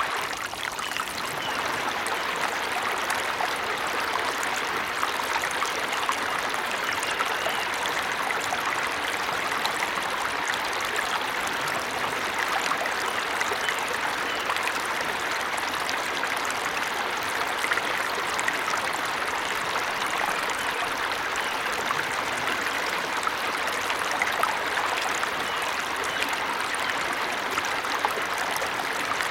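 Small waterfall's flowing water: a steady, even rush and splash with no breaks.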